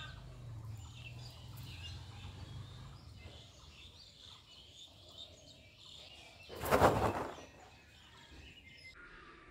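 Scattered bird chirps in the background, with a loud, short rush of noise about seven seconds in.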